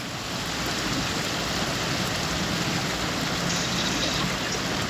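A car driving through street floodwater: a steady rush of water and tyre spray, with a low engine hum underneath.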